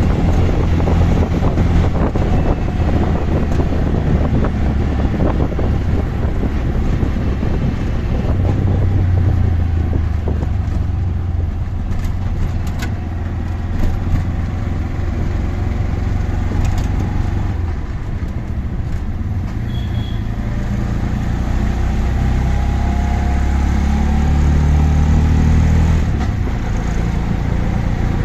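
Auto-rickshaw engine running steadily during a ride through road traffic, with road and wind noise. The engine pitch rises for a few seconds near the end as it speeds up.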